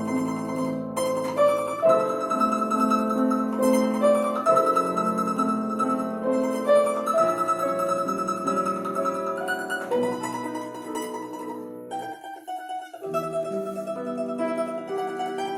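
A plucked string instrument playing a melody, holding its notes in tremolo, over piano accompaniment; the low accompaniment drops out for about a second near the end.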